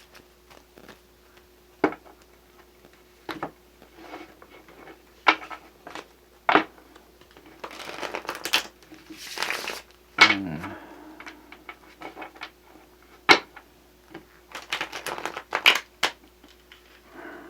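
A tarot deck being shuffled by hand: sharp card snaps and taps, with two longer rustling flurries of cards about halfway through and again near the end.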